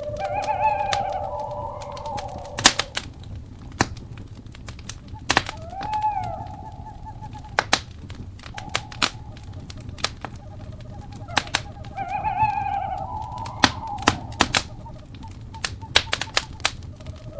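Wood fire crackling with many sharp, irregular pops, the pops being the loudest sounds. Over it an owl calls repeatedly, each call a held note followed by a wavering rise and fall in pitch, coming back about every five to six seconds.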